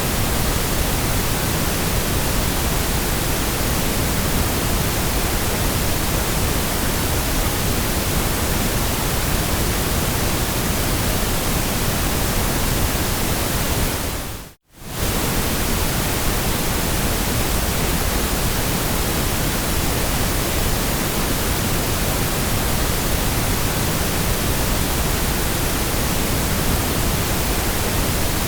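Steady, even white noise hissing across all pitches, with a little more weight in the low end. About halfway through it fades out almost to silence for a moment and comes straight back.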